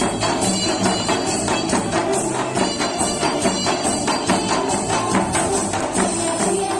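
Janggu, the Korean hourglass drum, played in a fast, steady nanta rhythm over a trot music backing track.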